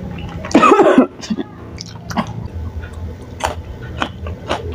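Chewing a mouthful of chewy tapioca-flour strips (cirambay) in chili oil, with irregular sharp mouth clicks. A short, loud mouth sound about half a second in, as the forkful goes in.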